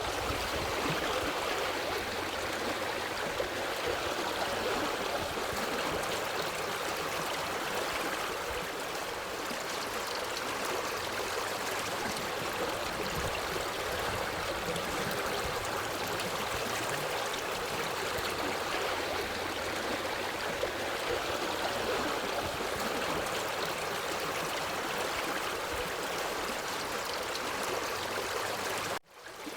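Forest stream running, a steady even rush of flowing water. The sound drops out for a moment near the end, then resumes.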